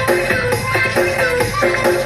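Music played loud through the MD 2000 sound system's loudspeakers and subwoofers during a sound check, with a steady beat and heavy bass.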